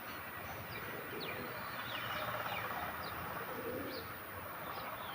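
Birds calling: short high chirps that slide downward, repeated every second or so, with a few lower calls, possibly from a dove, mixed in over a steady background hiss.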